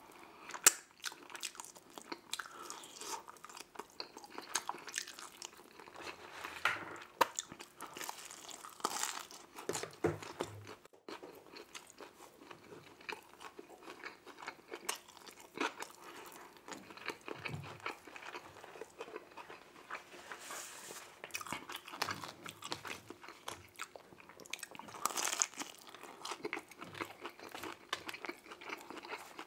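Chewing and biting of buffalo chicken wings, with irregular clicks and smacks from the mouth.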